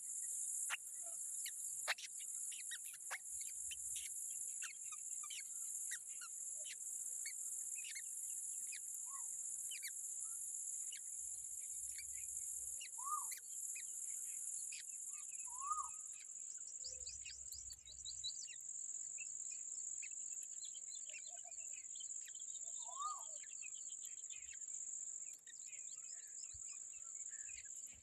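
Steady high-pitched insect drone, with scattered short bird chirps and a few lower whistled bird notes over it.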